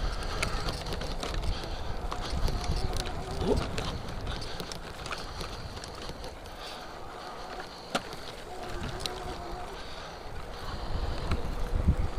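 Wind buffeting the microphone on a moving e-bike, with a faint whine from the e-bike's motor that comes and goes and scattered rattling clicks.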